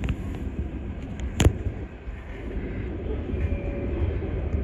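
Passenger train running along the line, heard from inside the carriage as a steady low rumble, with one sharp knock about a second and a half in.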